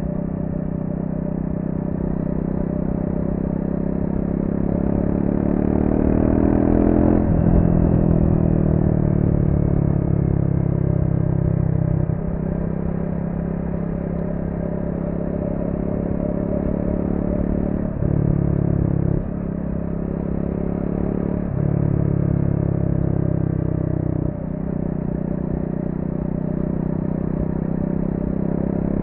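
Triumph Speed 400's single-cylinder engine through its stock exhaust, revving under varying throttle. It climbs steadily in pitch for about seven seconds, then drops suddenly. Its pitch and level jump abruptly several more times as the throttle is opened and closed.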